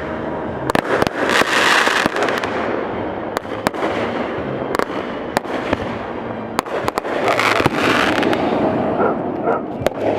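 Fireworks display: a rapid string of sharp bangs and crackles over a continuous rumble, with hissing swells of crackling around a second in and again near eight seconds.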